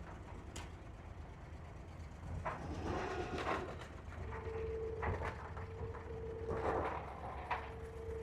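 Diesel engine of a Dubai Creek abra water taxi idling at the pier, a steady low hum, with scattered knocks and clatter. A steady humming tone comes in about four seconds in.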